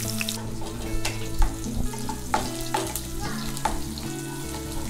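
Green chillies, garlic and ginger sizzling in hot oil and ghee in a nonstick kadai, with a wooden spatula stirring and knocking against the pan several times.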